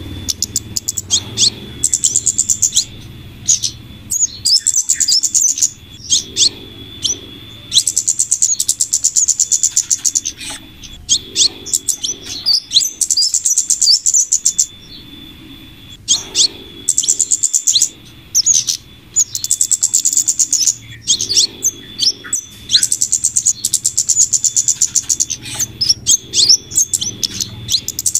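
Bird-lure recording of flowerpecker calls combined with female scarlet minivet calls: very high, rapid chirping trills in bursts of about two seconds that repeat over and over, with short sharp chirps in between, over a low steady hum.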